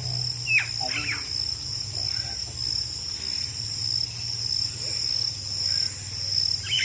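Steady high-pitched chorus of crickets, with a bird giving two short falling calls about half a second in, over a low steady hum.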